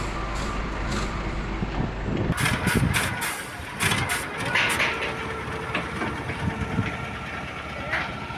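Heavy diesel truck engine running steadily on a concrete-pouring site, with a string of sharp knocks and clanks a few seconds in.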